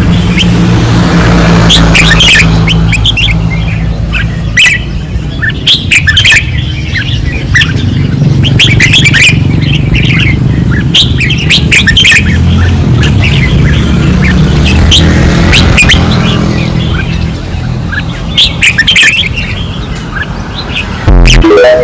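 Several red-whiskered bulbuls singing hard, quick chirping phrases overlapping one another, over a steady low rumble.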